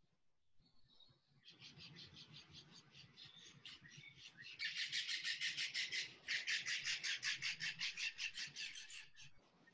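A bird calling in a fast, even series of high chirps, about eight a second, getting much louder halfway through with a brief break before it stops near the end.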